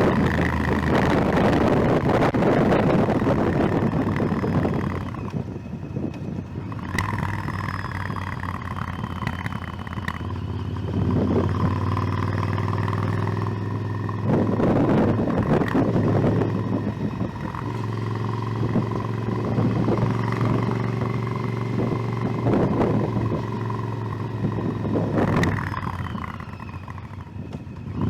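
Motorcycle engine under way, its note rising and falling with the throttle as the bike accelerates and eases off. It drops back twice, about five seconds in and near the end.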